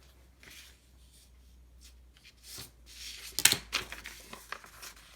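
A letter-size sheet of paper rustling as it is folded and creased. It is quiet at first, then a run of crinkles and rubs starts about halfway through, the sharpest about three and a half seconds in.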